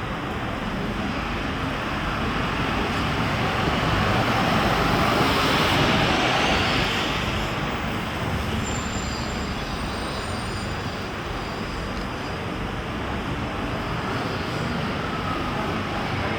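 Steady street traffic noise, with a vehicle passing close by, loudest about five to six seconds in.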